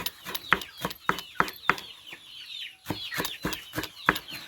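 Knife chopping leaves into small pieces in quick strokes, about four or five a second, pausing briefly about two seconds in, while chickens and chicks peep and cluck around.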